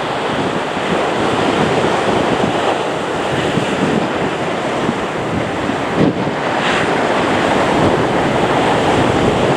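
Steady rushing roar of a Boeing 777-200LR's GE90 jet engines, mixed with wind buffeting the microphone, growing a little louder near the end.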